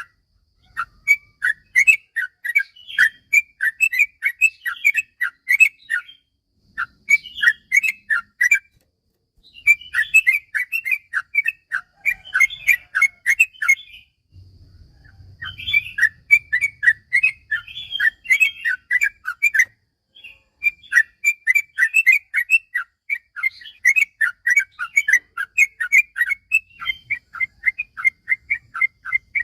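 Yellow-vented bulbul (trucukan) singing long rapid runs of short chattering notes, about four a second, in phrases several seconds long with brief pauses between them.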